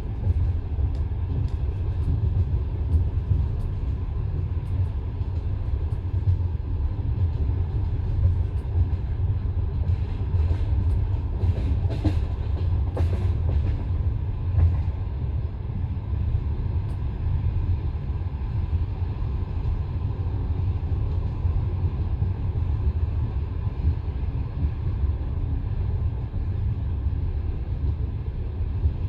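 Passenger train carriage in motion, heard from inside: a steady low rumble of the wheels running on the rails. A brief run of sharp clicks and knocks comes about ten to fourteen seconds in.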